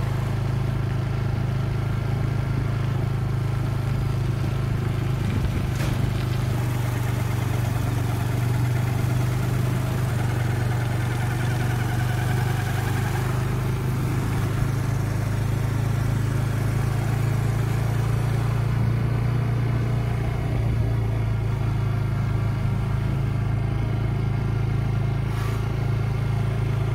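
Vehicle engine running steadily while driving, a constant low hum with no change in speed.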